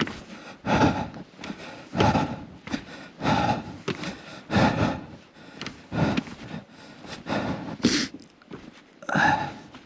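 A person breathing hard close to the microphone, with a loud puffing breath about every second and a bit, as from the exertion of hiking.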